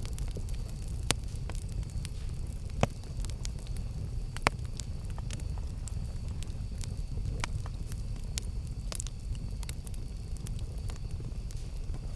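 Wood campfire burning with a steady low rumble and scattered sharp crackles and pops, the loudest about one, three and four and a half seconds in.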